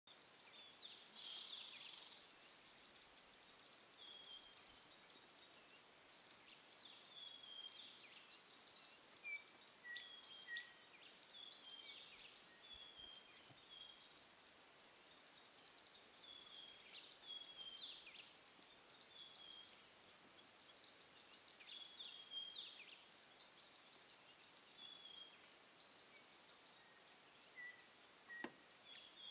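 Faint chorus of wild birds calling: many short, high chirps and rapid trills overlapping one another, over a soft background hiss.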